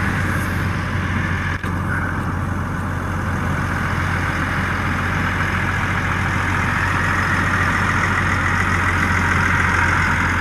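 An engine idling steadily, with a constant low hum under an even rushing noise that grows slightly louder.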